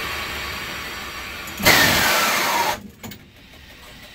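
Running noise inside a moving train's cab. A little under two seconds in, a loud hiss breaks in, lasting about a second with a falling whistle inside it, then cuts off sharply. After it the cab is much quieter, with a few sharp clicks.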